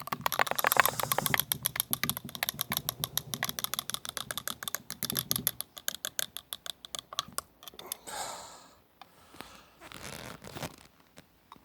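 Rapid scratching and scrubbing strokes, many a second, on a small die-cast metal car body as paint loosened by caustic soda is worked off. After about seven seconds the strokes stop, leaving a few softer scrapes.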